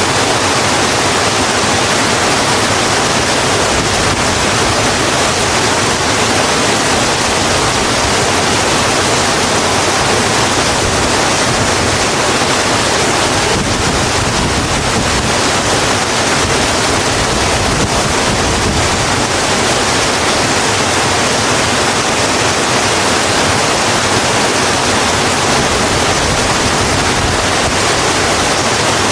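Steady, heavy rain: an even, dense hiss with no single drops standing out.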